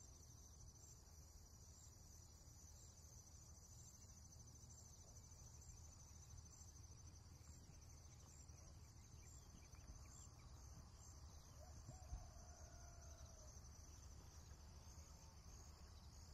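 Near silence with faint, steady high-pitched insect chirping, a pulse repeating at an even rate.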